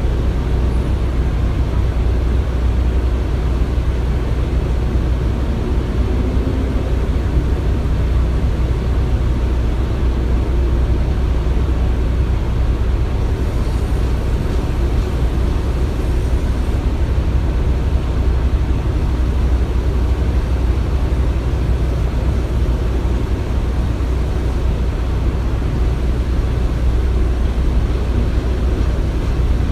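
Construction site ambience: a steady, low machinery rumble that does not change.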